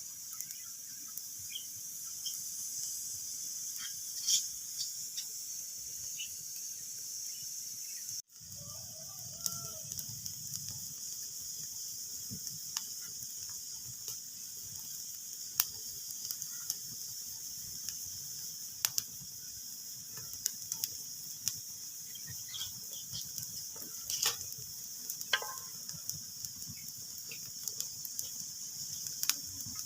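Wood fire crackling in a fireplace: a steady hiss with scattered sharp pops and snaps. The sound cuts out for a split second about eight seconds in.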